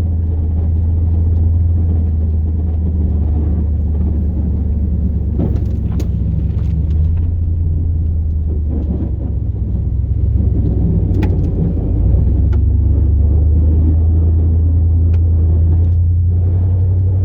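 Cab drone of a 2002 Chevrolet Silverado plow truck with an 8.1-litre big-block V8, running steadily down the road as a low, even rumble. A few faint clicks come through over it.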